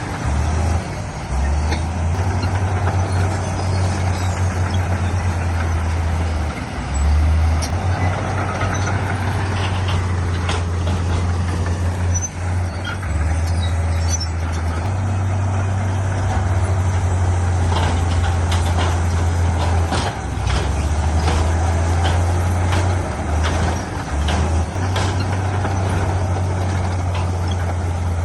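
Diesel engines of heavy earthmoving machinery running steadily under load, with scattered sharp clanks and knocks that come more often in the second half.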